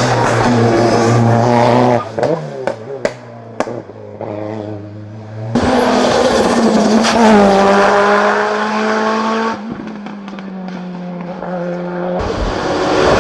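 Racing car engines at full throttle on a hill-climb course, passing one after another. The engine note drops sharply about two seconds in with a few sharp pops and cracks, then comes back suddenly and loudly about five seconds in, eases off and builds again near the end.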